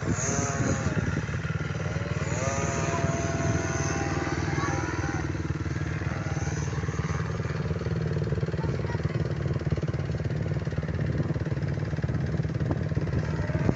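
Small petrol engines running, with one engine's pitch rising and falling several times in the first few seconds before it settles into a steady drone.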